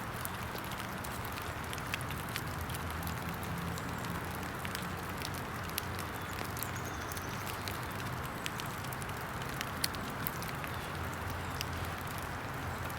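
Small, newly caught campfire of damp sticks crackling, with scattered sharp pops over a steady hiss of rain.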